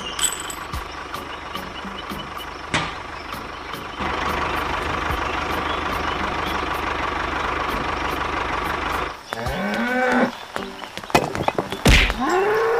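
A steady motor hum, louder from about four seconds in, stops about nine seconds in. A few drawn-out mooing calls follow, bending up and down in pitch.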